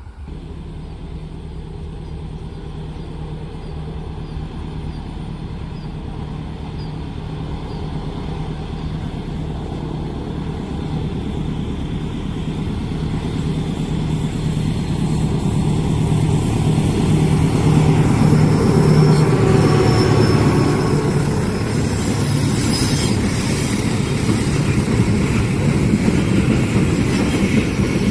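A diesel-hauled train approaching and passing on a curve. A steady low engine drone grows louder over about eighteen seconds, then the clatter and rush of wheels on rail, with some squeal, take over as the cars go by.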